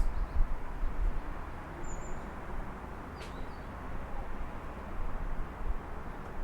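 Steady hum of city traffic with a deep, uneven low rumble, and a couple of short, high bird chirps about two and three seconds in.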